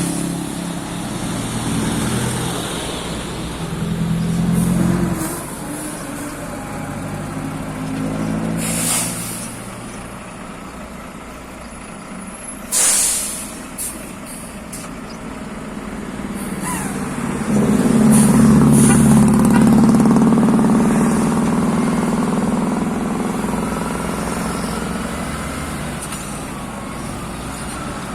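Heavy truck engines running and changing pitch as they rev, with short hisses of released air about nine and thirteen seconds in. An engine grows much louder near the middle and stays loud.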